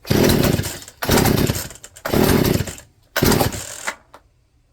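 Poulan P3416 34cc two-stroke chainsaw being pull-started, four pulls about a second apart, each a short loud burst that dies away without the engine settling into running. The newly fitted Hipa carburetor is judged to need adjusting out of the box.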